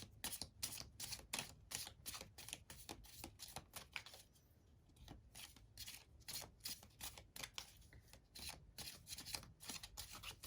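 A tarot deck being shuffled by hand: quick papery flicks and rustles of cards, with a short lull about four seconds in.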